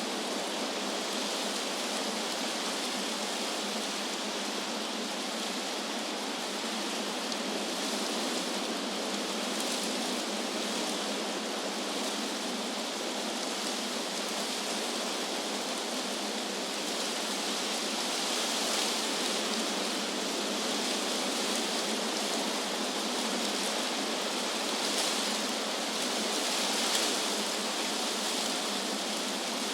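Wind blowing through tree leaves: a steady rushing hiss with a few gentle swells in the second half.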